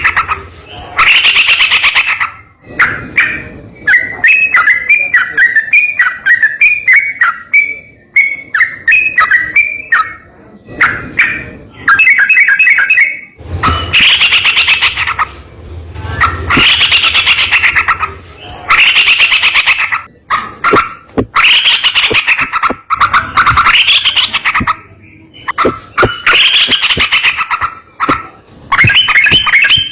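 Yellow-vented bulbul (trucukan) singing: repeated loud bursts of rapid rolling trill, each about a second long, alternating with runs of short bubbly chattering notes.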